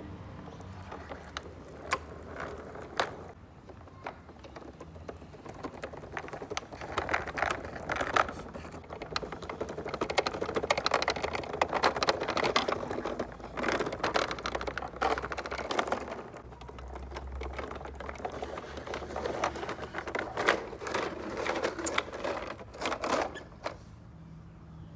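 Small toy vehicles being handled and rolled on a hard surface: a dense, irregular clatter of plastic and metal wheels and bodies. A few separate sharp clicks come early, and the rattling grows busier and louder in the middle before thinning out near the end.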